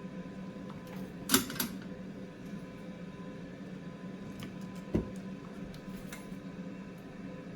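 Steady electric fan hum from soldering-bench equipment, with a quick cluster of sharp metallic clicks about a second in and a single click about five seconds in from hand tools working the circuit board.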